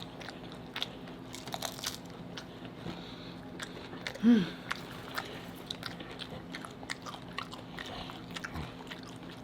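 Close-up crunching and chewing of crisp taco shells, many sharp irregular crunches. A short hummed vocal sound breaks in about four seconds in.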